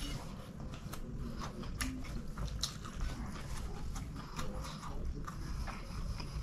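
Close-miked chewing of a mouthful of chicken biryani, with irregular wet mouth clicks and smacks.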